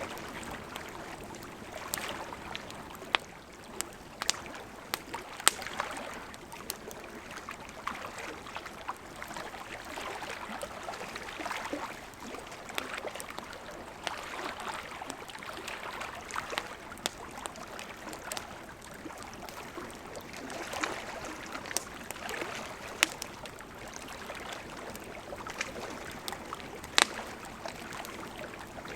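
Wood campfire crackling, with scattered sharp pops, over small waves lapping gently at a lakeshore in slow swells.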